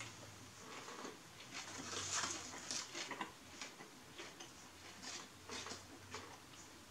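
Chewing a sub sandwich close to the microphone: irregular soft crackles and wet mouth clicks, thickest about two to three seconds in.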